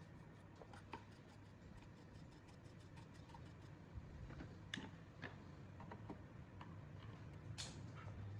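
Faint, rapid, even ticking for the first few seconds, then a few sharper isolated clicks, over a low steady hum.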